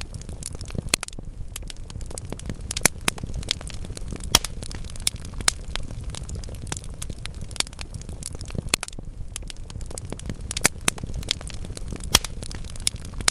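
Wood fire burning in a fireplace: a low steady rumble of flame with irregular crackles and sharp pops from the burning logs, a few pops standing out louder.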